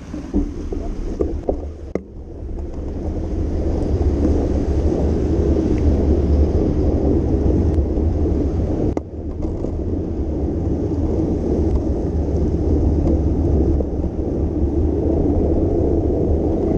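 Wind rushing over the microphone of a moving bicycle, with tyre noise on wet road, a steady low rumble that grows louder over the first few seconds. A few light clicks near the start.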